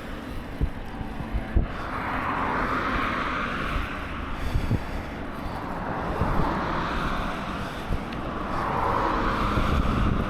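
Road traffic swelling and fading as cars pass, mixed with wind buffeting the microphone, which makes irregular low thumps.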